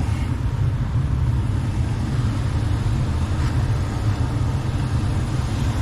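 Gas furnace running with its burner lit and blower motor on, a steady low rumble of moving air. It is the sound of the furnace firing normally now that the clogged filter that made it overheat and shut down has been removed.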